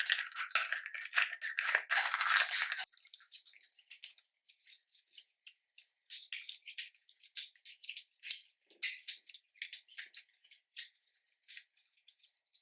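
Slime being squeezed and stretched by hand, making sticky crackling and small popping clicks. The clicks are dense for the first three seconds or so, then turn sparse and lighter.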